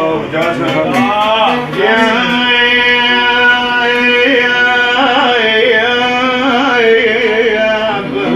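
A man singing a long held note in Iraqi style, with sliding and wavering ornaments over several seconds.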